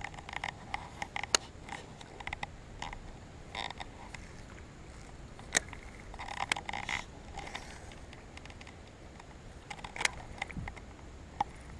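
Faint low wind rumble with scattered light clicks and taps, a few of them sharper, about one and a half, five and a half and ten seconds in.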